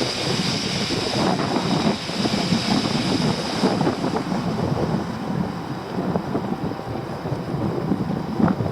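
Wind buffeting the microphone in uneven gusts. A steady high hiss runs alongside and stops about four seconds in.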